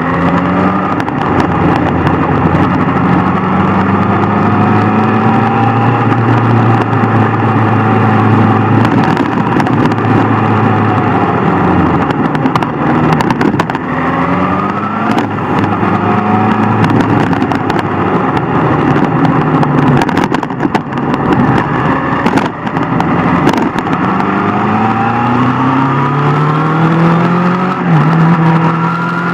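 Sport motorcycle engine at riding speed: it holds a steady note at first, then revs up in several rising climbs.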